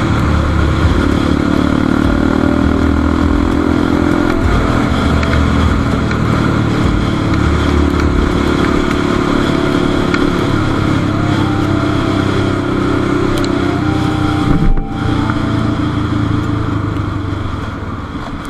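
Motorcycle engine running under way over a steady rush of wind and road noise, its note shifting a few times, with a brief sudden break about fifteen seconds in. The engine eases off near the end.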